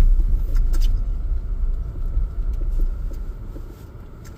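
Car driving, a steady low rumble that eases off in the second half as it slows down.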